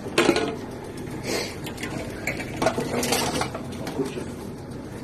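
Empty drink bottles and cans clinking and rattling against each other as they are handled and fed into a bottle-deposit return machine, in several short separate clatters.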